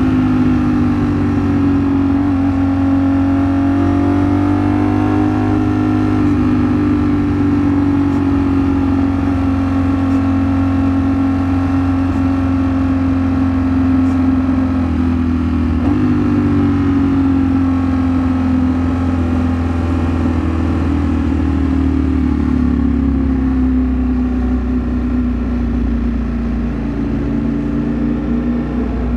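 Ducati Streetfighter V4 S's V4 engine running under way, its pitch rising and falling slowly with the throttle. About sixteen seconds in the pitch jumps up suddenly, then sinks slowly.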